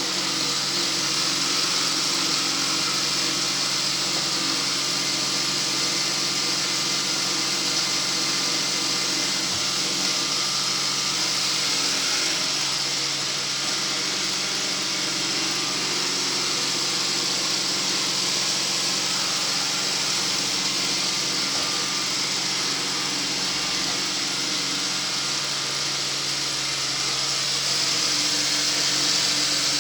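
Motorised sweeping machine running steadily, a constant motor hum under a strong hiss.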